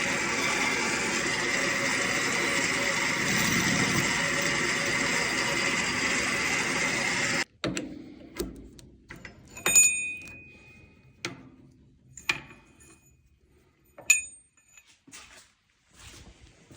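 Metal lathe running steadily while cutting down a clutch bearing housing, a dense machining noise with steady whining tones; it cuts off suddenly about seven seconds in. After that come several sharp metallic clinks that ring on briefly, from metal parts being handled.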